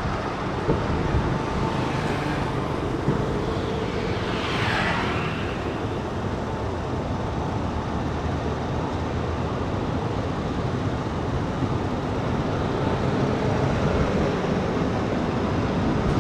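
Passenger train running along the track, a steady rumble and rush of noise heard from on board, with a brief swell of hiss about four to five seconds in.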